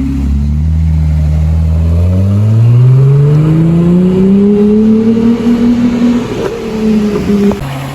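A car engine accelerating hard: steady for a moment, then its pitch climbs for several seconds before easing off and dropping near the end.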